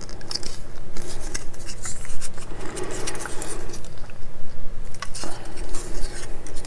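Small hard clicks and taps of plastic model-kit parts and tools being handled and set down on a work bench, over a steady low electrical hum.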